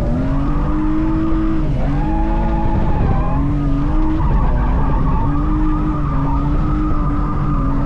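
A drift car's engine revving hard and held at high revs, the revs dipping briefly every second or two, over tyre skid noise as the car slides.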